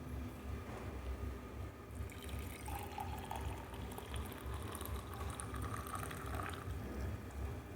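Liquid poured into a cup, the pitch of the filling rising for a few seconds in the middle, over a low steady rumble.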